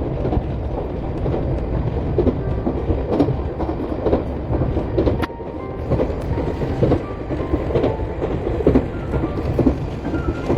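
Iyotetsu electric train running on its rails, a steady rumble with clacking of the wheels over the rail joints.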